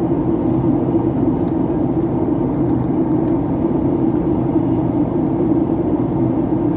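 Steady airliner cabin noise: an even, low rumble of engines and rushing air that holds without change.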